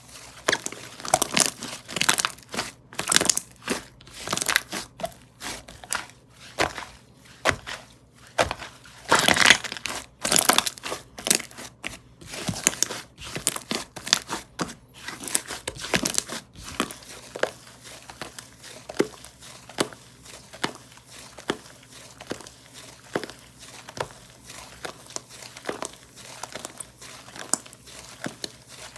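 Slime being stretched, pressed and poked by hand, giving dense, irregular crackling and crinkling sounds. The crackles are loud and busy for the first half, then thin out to fainter, scattered clicks.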